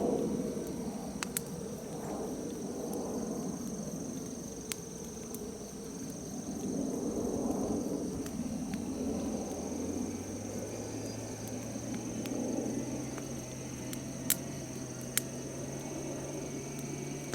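A bonfire of freshly broken green chestnut branches burning with a low, uneven rushing sound and a few sharp pops, over the steady high trill of crickets.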